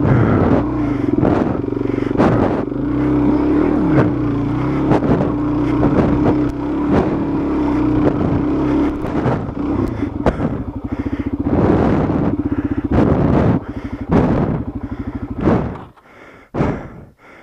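Dual-sport motorcycle engine gunned hard and held at high revs through mud, with repeated knocks and clatter from the bike. The engine note drops and falls away near the end.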